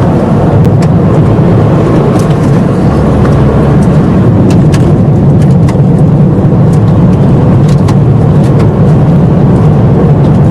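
Car driving on a loose gravel road: a loud, steady rumble of tyres and engine, with scattered sharp clicks of stones.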